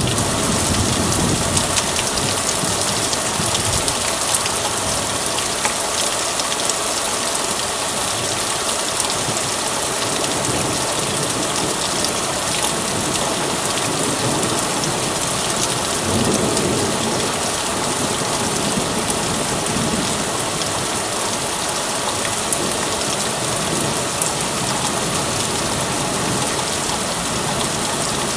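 Heavy thunderstorm downpour: dense, steady rain hissing on surfaces, with low rumbles of thunder at the start and again about halfway through.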